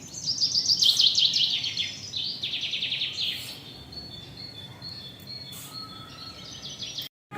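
Songbirds chirping and trilling in quick, high series, loudest in the first two seconds, then thinner calls until the sound cuts off abruptly near the end.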